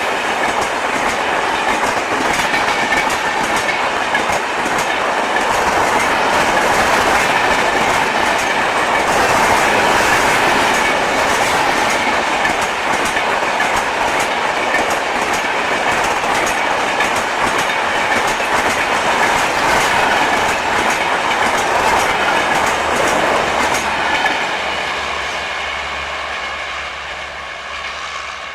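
Express train's LHB passenger coaches rushing past at speed, wheels clattering over the rail joints. The noise begins to fade about 24 seconds in and dies away near the end.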